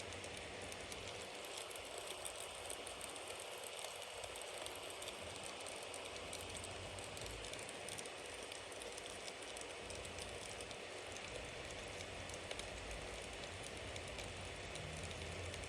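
Bonfire burning: a steady hiss with many small, irregular crackles and pops from the burning wood.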